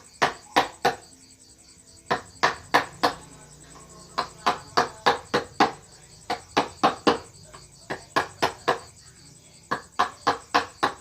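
Carving chisel struck with a mallet: a run of sharp taps, two to three a second, in short bursts with brief pauses between them.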